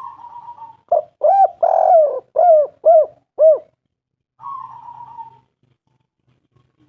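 Spotted dove cooing: a soft quavering note, then a run of six loud hooting coos, the third drawn out longest. Another soft quavering note follows.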